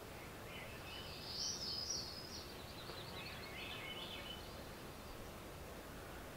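A songbird singing a quick, high twittering phrase, loudest about a second and a half in and trailing off after about four seconds, over faint steady background noise.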